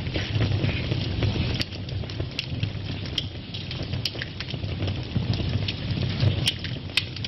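Wood fire burning in a fireplace: a steady low rumble of flames with irregular sharp crackles and pops, a few of them loud.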